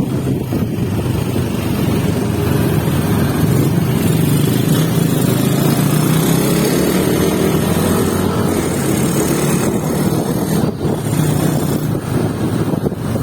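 Motorcycle engine running steadily, its pitch climbing through the middle and then holding.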